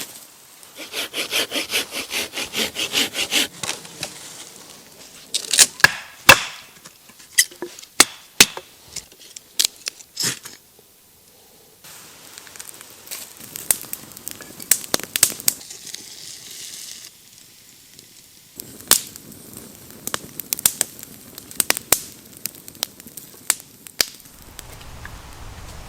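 Wood being worked by hand: about three seconds of quick, even hand-saw strokes, then a series of sharp cracks and knocks of wood, with softer rustling between them.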